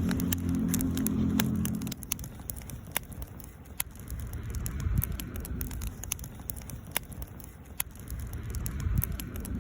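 Wood campfire crackling, with irregular sharp pops and snaps. A low steady hum underlies the first two seconds, then cuts off.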